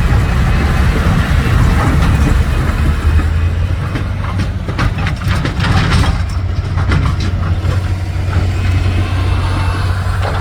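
Heavy dump truck's diesel engine running steadily, with a run of metallic clanks and rattles between about four and seven seconds in.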